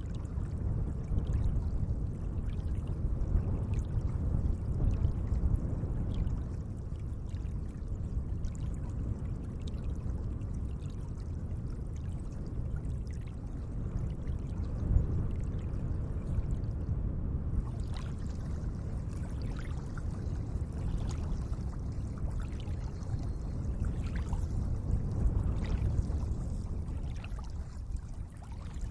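Gentle lake water running and splashing steadily, with many small splashes and drips scattered throughout.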